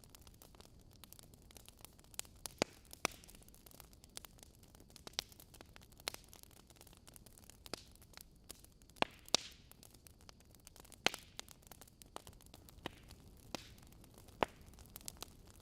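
Wood logs burning in a fireplace, crackling and popping in irregular sharp snaps over a soft steady hiss.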